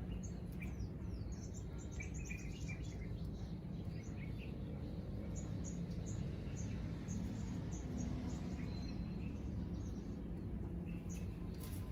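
Many short, high-pitched animal chirps in quick, irregular succession over a steady low background noise.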